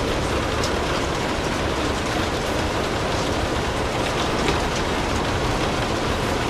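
Steady rain, a dense even hiss with faint scattered ticks.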